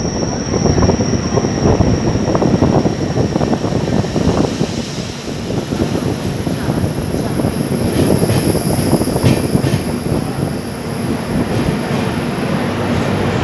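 Passenger train running on the rails: a steady, loud rumble of wheels and carriage, with a thin high squeal fading away over the first half.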